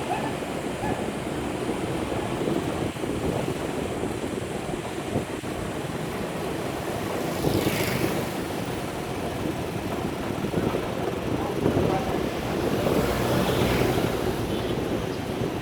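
Wind rumbling on the microphone of a moving bicycle, with road traffic; something louder goes past twice, about halfway through and near the end.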